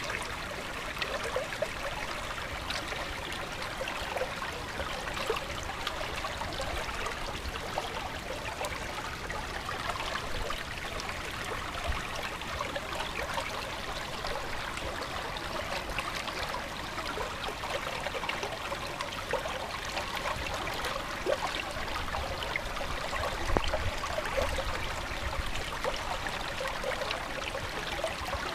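A stream running: a steady babble of flowing water with many small splashes and trickles.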